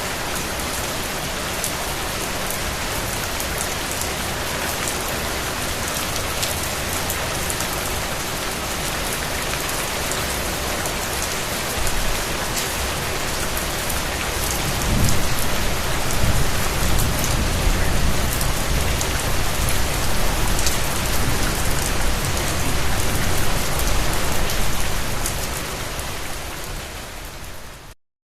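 Steady rain falling, a dense hiss with sharp drops ticking through it. About halfway a low rumble swells in beneath the rain and holds. Near the end it all fades away and stops.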